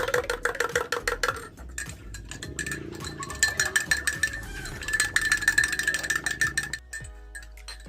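Rapid clinking and rattling of small hard objects, like glassware or utensils, over background music; the clinking stops about seven seconds in, leaving only the music.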